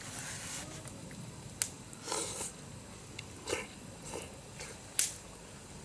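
Campfire crackling: a few isolated sharp pops, the loudest about 5 s in, mixed with short bursts of crackle and rustle.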